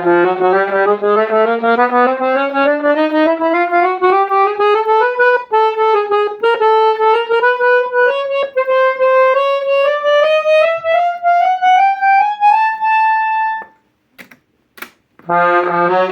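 Hohner Morino IVS Midi accordion playing a fast rising scale, note after note, climbing steadily for a little over two octaves. Near the end the run stops on a held high note, two short clicks follow, and then a low held chord starts.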